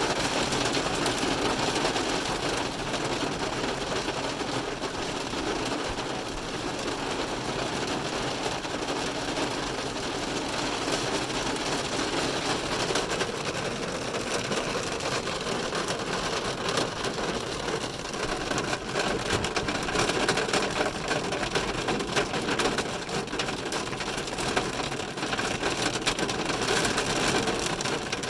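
Heavy rain drumming steadily on a car's roof and windows, heard from inside the car as a dense, even patter of countless drops.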